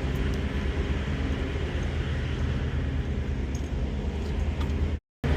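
Semi truck's diesel engine running steadily with a low, even hum. The sound cuts out completely for a moment near the end.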